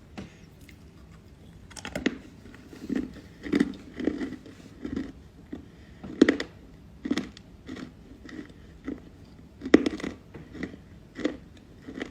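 A person biting into and chewing dry chalky clay close to the microphone: crisp crunches come about once a second, with the sharpest bites about 2, 6 and 10 seconds in.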